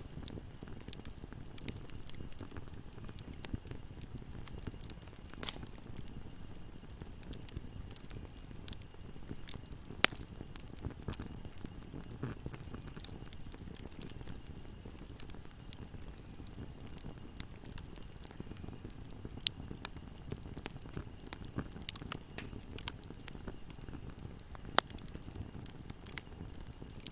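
Campfire burning: a steady low rumble of flames with scattered crackles and a few sharp pops of burning wood.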